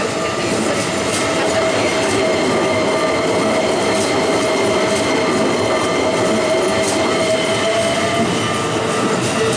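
Keikyu electric train running through a sharp curve, its wheels squealing steadily against the rails, with occasional clicks of the wheels over rail joints. One squealing tone fades out near the end.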